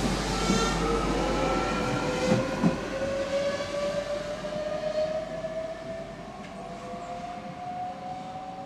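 Electric Minuetto regional train pulling away, its traction drive giving a whine that rises steadily in pitch as it gathers speed. There are two sharp knocks from the wheels on the track about two and a half seconds in, and the sound fades as the train recedes.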